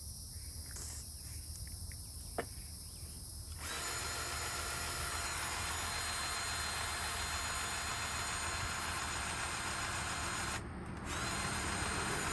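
A single sharp click, then a powered grease gun's motor starts about four seconds in and runs steadily. It cuts out briefly near the end and starts again. The gun is being run to prime a freshly loaded grease cartridge so it pumps grease into the skid steer's track adjuster.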